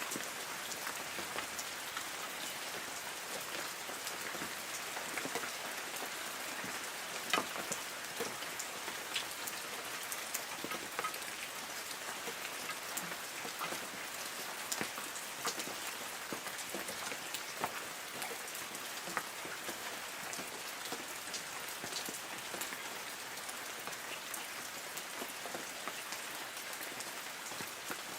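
Light rain falling on forest trees: a steady hiss of rain with many separate drops ticking on leaves.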